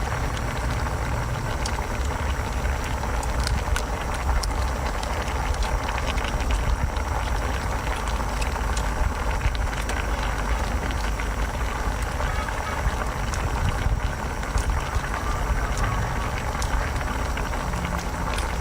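Someone eating a brown crab: small cracks, crunches and wet chewing clicks from the shell and meat, scattered irregularly. A steady low rumble runs underneath throughout.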